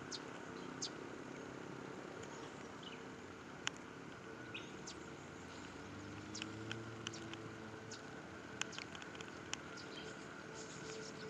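Outdoor background ambience: a steady faint hum like distant traffic, with scattered short high chirps and ticks.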